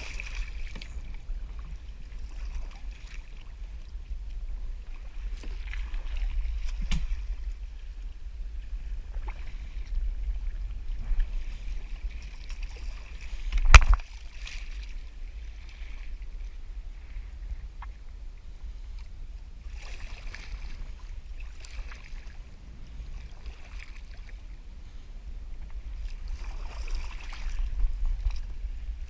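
Water splashing and lapping around a kayak in irregular swells, over a steady low wind rumble on the microphone. A single sharp knock about 14 seconds in.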